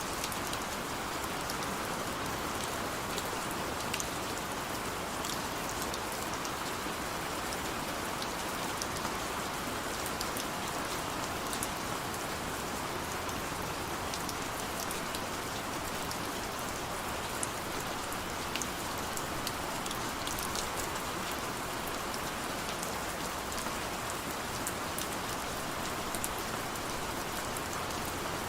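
Heavy rain falling steadily, a dense even hiss with sharp individual drops ticking through it.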